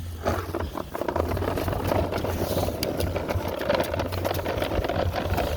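Child's ride-on toy dump truck driving along: a steady motor whine with the wheels and plastic body rattling over the ground.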